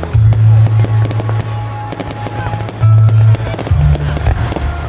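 Fireworks crackling and banging at a display, with loud music carrying a heavy bass line playing at the same time.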